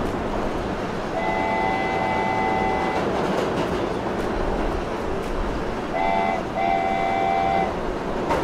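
Train running with a steady rumble while its multi-tone horn sounds three times: a long blast about a second in, then a short blast and a longer one near the end.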